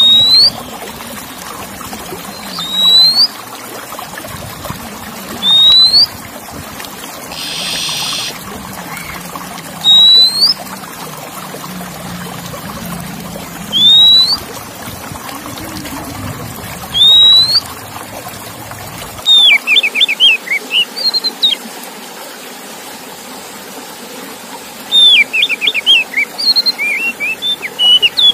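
Male Oriental magpie-robin singing: loud, clear rising whistles repeated every three to four seconds, a short buzzy note about a quarter of the way in, and fast runs of short notes in the last third. The song is meant to rouse male magpie-robins into singing. Steady trickling water runs underneath.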